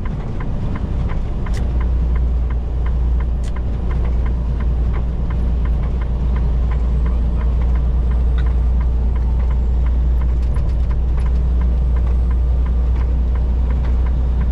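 Semi-truck cab interior at highway speed: a steady low drone of engine and road noise, with faint clicks at a regular rhythm running through it.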